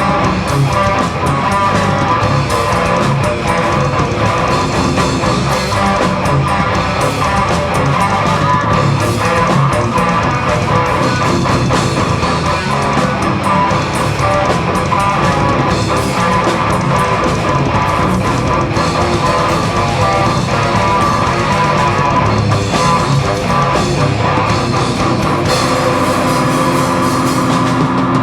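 Live heavy rock band playing an instrumental passage, with loud distorted electric guitars and a drum kit and no vocals.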